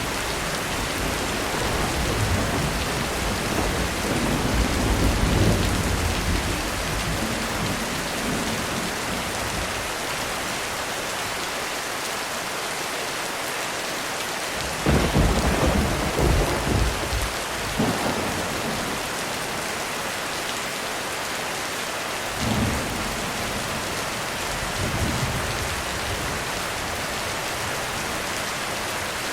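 Heavy rain falling steadily on a roof, with thunder throughout. A long low rumble fills the first few seconds. About halfway through comes a sharp, loud crack with rolling rumble, then a second crack, and two lighter claps follow near the end.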